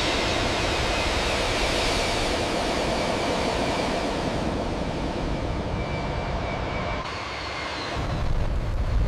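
Jet airliner engine noise: a steady roar with faint high whining tones in it, and a deeper low rumble swelling up near the end.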